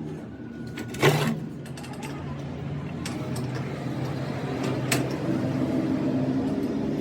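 A workshop machine running with a steady hum, with a loud sharp metal knock about a second in, another about five seconds in, and a few lighter clicks.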